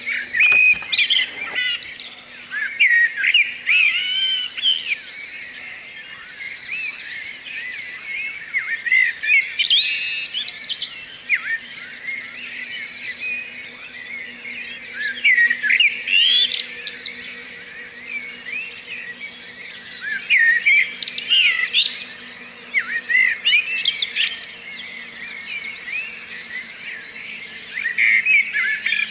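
Several songbirds singing in a morning chorus, with overlapping quick chirps, whistles and trills coming in clusters every few seconds.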